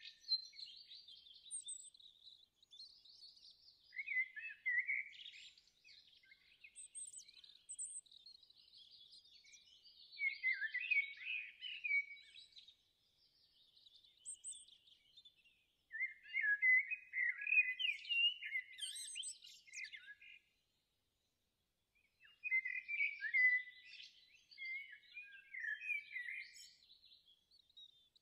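Small birds chirping and singing in quick, high trilling phrases, breaking off into silence for about a second and a half two-thirds of the way through.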